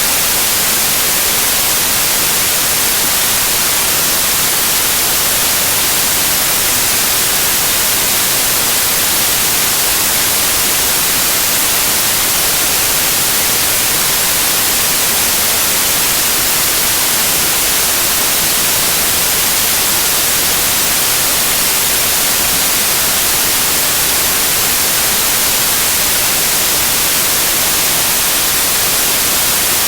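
Loud, steady white noise: an even hiss with no change or events.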